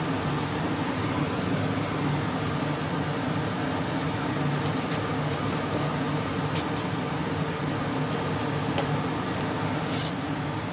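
Slices of ginger frying in hot oil in a stainless steel pan: a steady sizzle over a low hum, with a few sharp pops and crackles, the loudest near the end.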